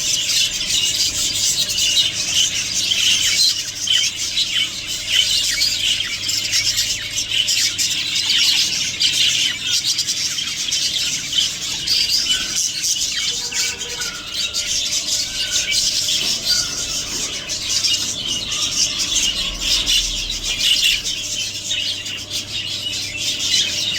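Budgerigars chattering continuously, a dense stream of warbling chirps and squawks with no pause.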